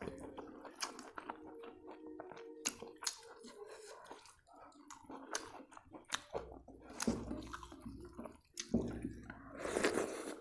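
Close-miked eating sounds: a person chewing mouthfuls of rice with many small wet clicks and smacks, louder in the second half.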